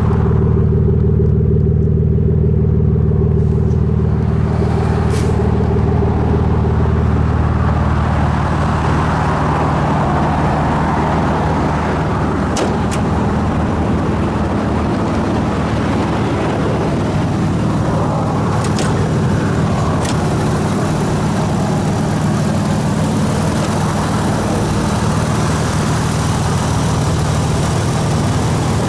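Toyota Supra JZA80's turbocharged 2JZ straight-six idling steadily through an HKS Silent Hi-Power aftermarket exhaust, with a few brief clicks in the middle.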